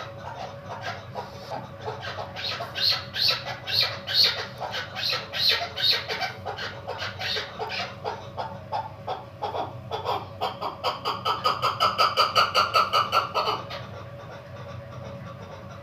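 Female chukar partridge calling: a long series of repeated clucking chuck notes that grows louder, then speeds up into a fast, even run of notes that stops abruptly near the end.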